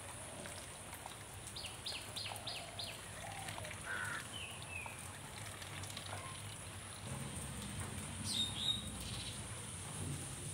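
Bird chirps: a quick run of about five high, down-slurred chirps about two seconds in, a few scattered notes after it, and one more call near the end, over a steady outdoor background hiss.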